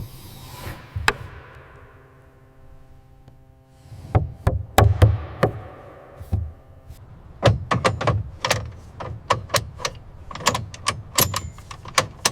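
Irregular knocks and clanks from assembly work in a workshop, at times several a second. Before them, a faint ringing tone fades away over the first few seconds.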